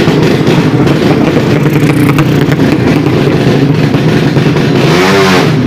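Drag racing motorcycle engine running loud and steady, with a brief rev that rises and falls in pitch near the end.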